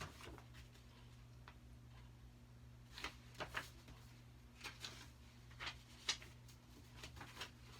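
Faint paper rustles and soft taps of a book's pages being handled and turned, in a few short clusters over a low steady hum.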